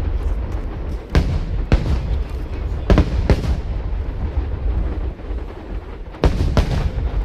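Aerial fireworks shells bursting: a pair of sharp booms about a second in, another pair about three seconds in, and a quick cluster near the end, over a constant low rumble of more distant bursts.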